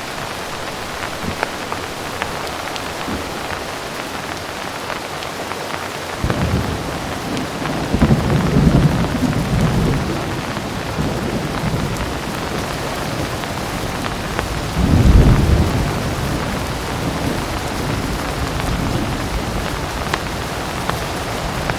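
Heavy rain falling steadily, with low thunder rumbling in about six seconds in and swelling louder twice, once a few seconds later and again about two-thirds of the way through.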